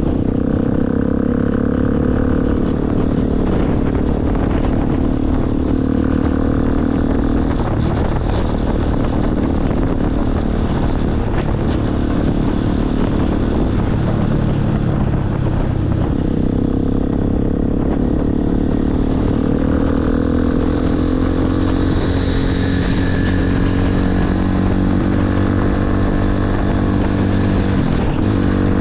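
Motorcycle engine running under way, its pitch climbing and then dropping several times as the rider works the throttle and gears.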